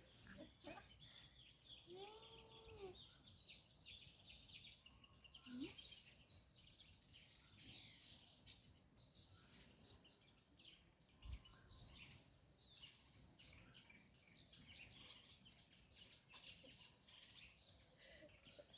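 Faint outdoor ambience of small birds chirping on and off, with one lower drawn-out call about two seconds in.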